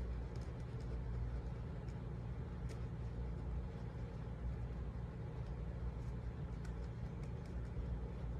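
Steady low background hum, with a few faint light clicks scattered through it.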